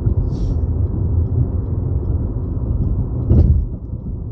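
Steady low rumble of a car driving on the road, heard from inside the cabin, with a brief hiss near the start and a short thump a little over three seconds in.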